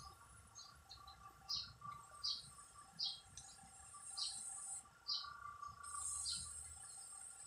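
A bird chirping outdoors, short high calls repeated about once a second, over a faint steady high hum; a thin high buzz comes in twice, about four and six seconds in.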